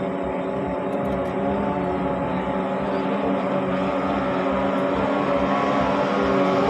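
Racing speedboat's 18 hp outboard motor running at a steady pitch, gradually growing louder.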